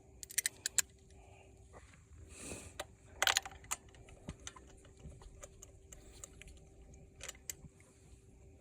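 Light metallic clicks and taps of hand tools and engine parts being handled, scattered through, with a quick cluster near the start and a short rattling burst about three seconds in.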